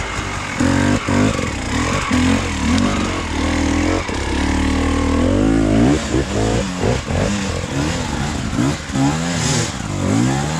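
Off-road motorcycle engine revving hard in repeated surges, its pitch rising and falling again and again as the bike fights its way up a rough trail climb.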